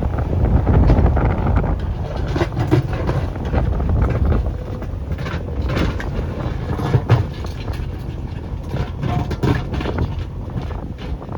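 JCB backhoe loader's diesel engine running steadily under load, with many short knocks and clanks scattered through it.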